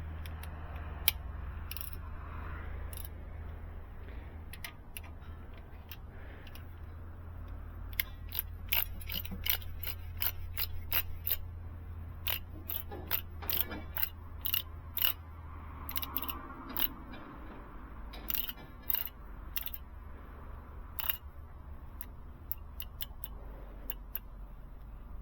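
Hand ratchet clicking in short runs as bolts on a diesel's Jake brake housing are run down with a socket. A low steady hum sits underneath and stops about two-thirds of the way through.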